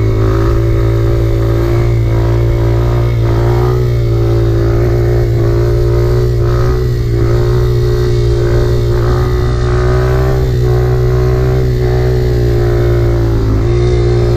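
Motorcycle engine running at a steady cruising speed, its pitch holding nearly level, with a brief slight dip and recovery near the end.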